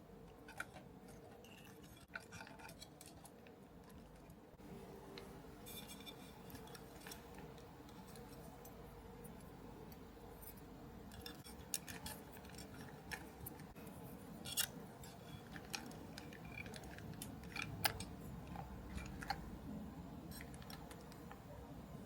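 Scattered small clicks, ticks and snips of model-kit parts being handled and fitted by hand, a few sharper clicks standing out in the second half, over a faint steady hum.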